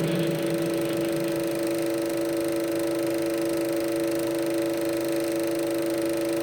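Steady hum of several pitches over an even hiss, from the soundtrack of a Super 8 sound film running on a projector.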